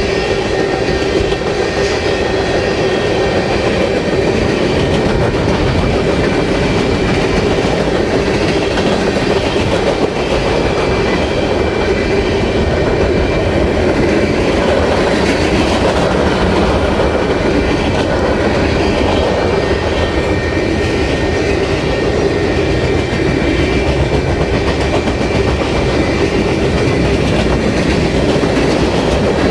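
Freight cars of a long freight train rolling past, a mix of tank cars, gondolas and boxcars: steel wheels clattering and rumbling on the rails in a loud, steady stream, with faint steady high tones over it.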